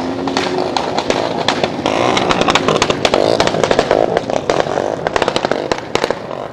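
Small motorcycle engine revving hard, with a rapid crackle of sharp pops over it, busiest in the middle and latter part.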